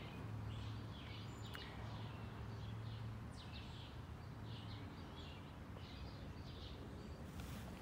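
Birds chirping outdoors: many short, high chirps scattered irregularly throughout, over a steady low hum.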